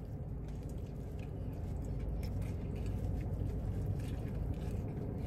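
A man biting into and chewing a fried-chicken slider, with faint small crunches and mouth noises, over a steady low hum inside a car.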